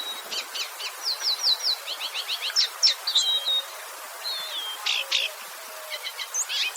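Several small songbirds chirping and singing, with overlapping quick series of short sweeping whistled notes and trills, over a steady hiss.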